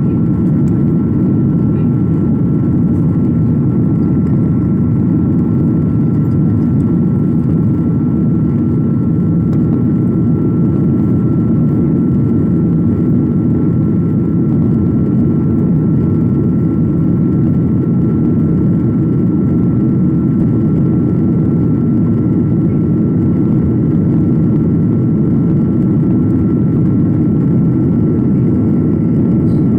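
Airliner cabin noise: a steady low drone of engines and rushing air, with a thin steady whine above it.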